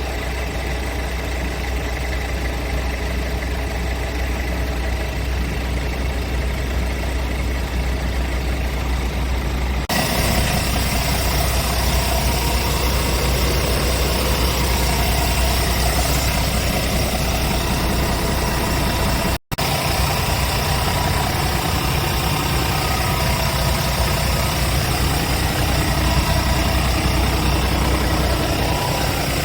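Scania G410 tractor unit's six-cylinder diesel engine idling steadily with a constant low hum. The sound changes abruptly about ten seconds in and drops out for an instant about two-thirds of the way through.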